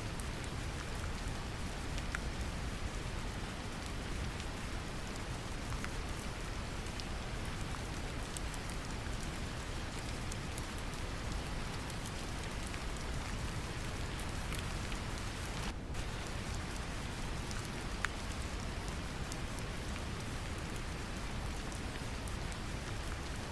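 Steady brown noise, deep and heaviest in the low end, mixed with gentle rain, with scattered light raindrop ticks over it. The hiss dips briefly about two-thirds of the way through.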